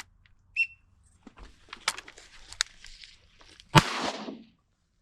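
A single shotgun shot, a loud sharp blast about four seconds in with a brief echo after it. Before it come two short high whistles near the start and some light rustling.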